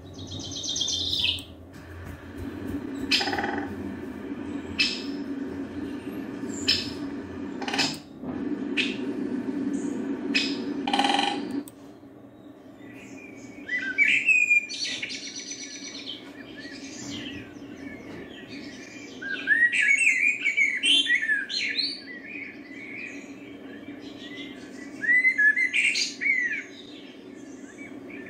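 Wild birds singing with many short, varied chirps that rise and fall, thickest in the second half. For the first twelve seconds a steady low hum and a few sharp chirps or clicks are heard; the hum stops suddenly about twelve seconds in.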